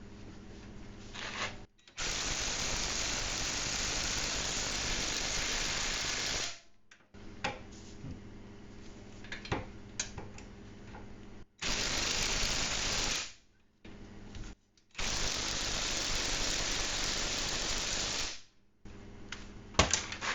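Ryobi cordless impact wrench hammering on a rear hub bolt in three bursts of a few seconds each, the longest about four seconds, without enough power to break the bolt loose.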